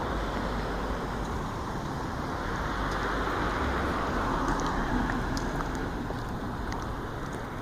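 Steady outdoor rumble like road traffic, swelling around the middle as if a vehicle passes, with a few faint high chirps in the second half.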